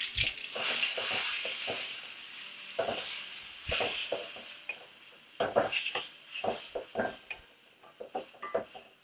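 Blended paste sizzling as it fries in hot oil in a wok. The sizzle is strongest at first and dies down over the first few seconds, then a spatula scrapes and knocks against the wok as the paste is stirred.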